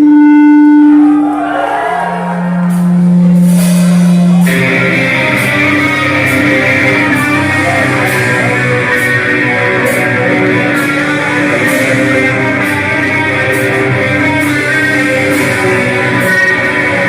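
Live heavy metal band playing loud with distorted electric guitars. Two long held guitar notes, one after the other, open the passage; then the full band comes in about four and a half seconds in, with drums and steady cymbal hits.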